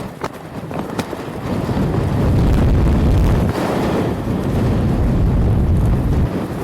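Strong ground-blizzard wind buffeting the microphone in a heavy low rumble, swelling louder about two seconds in. A few sharp clicks come in the first second.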